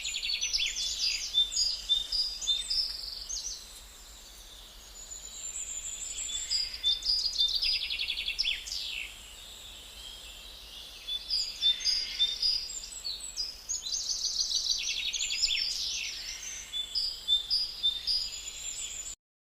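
Songbirds chirping and trilling: overlapping quick runs of high, rapidly repeated notes and short sweeps over a faint steady background noise. The sound cuts off suddenly near the end.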